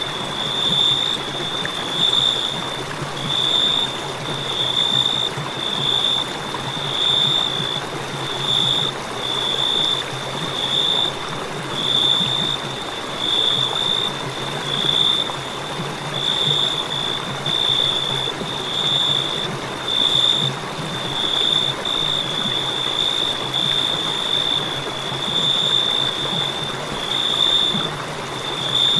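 Crickets chirping: a high-pitched trill that pulses about once a second, over a steady hiss.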